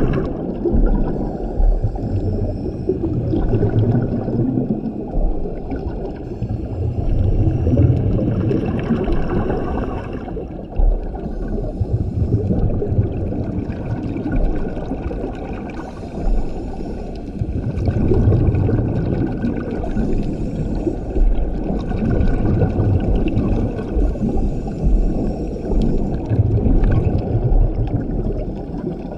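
Scuba diver's regulator breathing underwater, through several breath cycles. Each exhalation is a loud gurgling rumble of bubbles, and between them the inhalation draws a fainter hiss.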